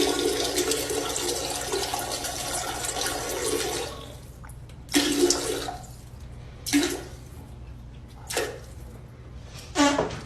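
Rushing water for about four seconds, then four shorter gushes roughly every one and a half seconds.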